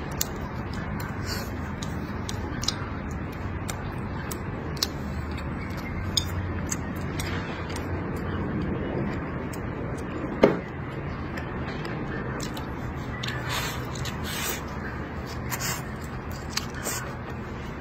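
Close-miked eating sounds: chewing and lip smacking on mouthfuls of stir-fried pork belly and greens, with scattered light clicks of chopsticks and one sharper knock about ten seconds in, over a steady low background noise.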